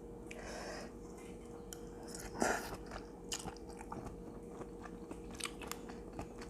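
Close-miked chewing of a spicy Thai seafood salad, with crunchy bites and small wet mouth clicks; one louder crunch about two and a half seconds in.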